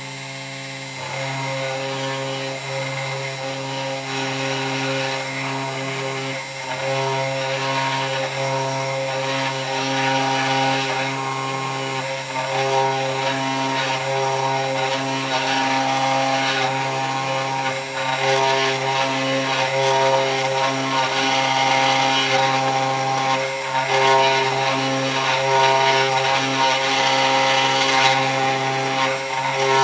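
3018 Pro desktop CNC router carving wood: the spindle motor runs steadily while the machine's motor whine shifts between pitches every second or two as the cutting moves change.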